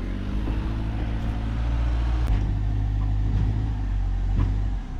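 Heavy diesel machinery engine running steadily with a low hum, dipping briefly near the end.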